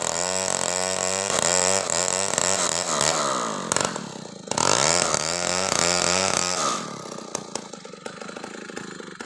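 Stihl chainsaw cutting into a coconut palm trunk at high revs, its pitch dipping and rising under load, in two runs with a short break about four seconds in. About seven seconds in it drops back to a low idle.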